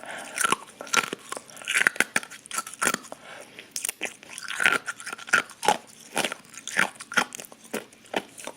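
An ice cube being crunched and chewed between a person's teeth: sharp, irregular cracks, a few a second, with chewing between them.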